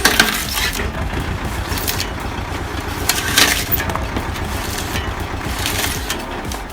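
Homemade engine-driven saw with a car-rim cutting disc running and cutting through wood. The wood cracks and splinters sharply three times: at the start, about three and a half seconds in, and near the end.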